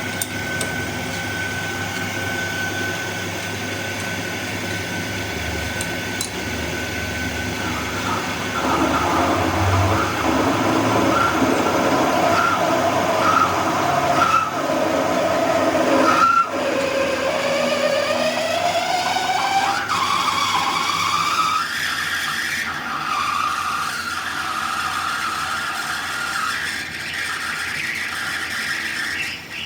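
Metalworking machine tool running on a metal part. A steady whine gives way after several seconds to shifting squealing tones, and a bit past halfway one tone rises steadily in pitch for several seconds.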